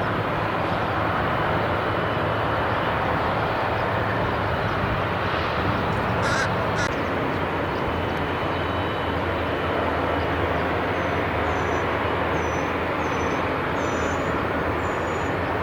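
Steady outdoor traffic noise, with a crow cawing twice about six seconds in and a small bird chirping repeatedly, roughly every half second, through the last few seconds.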